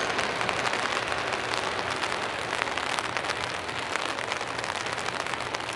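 Steady heavy rain falling, with many sharp drop hits pattering through it.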